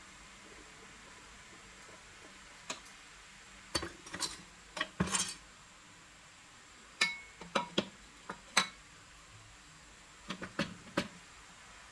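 Small metal parts and hand tools clinking and tapping against each other and hard surfaces, in irregular scattered knocks, a few in quick clusters, one of them ringing briefly.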